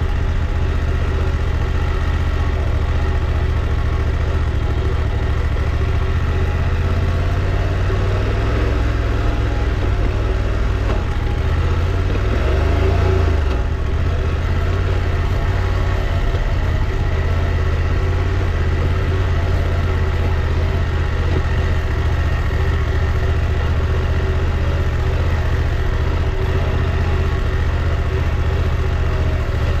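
Motorcycle engine running steadily while riding on gravel roads, with road and wind noise; the revs rise and fall briefly about 12 to 13 seconds in.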